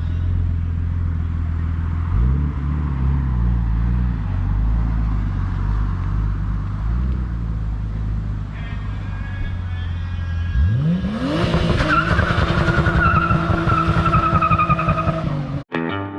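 Car engine idling with a few light blips of the throttle, then revved hard about ten seconds in and held at high revs with tires squealing in a burnout, cut off shortly before the end.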